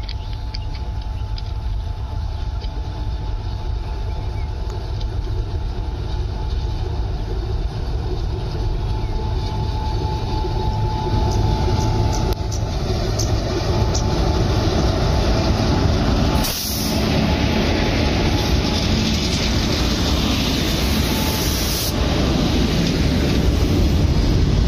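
Coal freight train hauled by a WAG-7 electric locomotive approaching and passing close by, its rumble growing steadily louder; the open steel wagons then roll past with a continuous rumble of wheels on rail.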